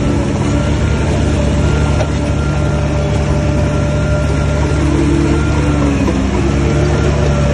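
Heavy diesel engine of earthmoving machinery running steadily under load, with a faint high whine over the deep engine hum.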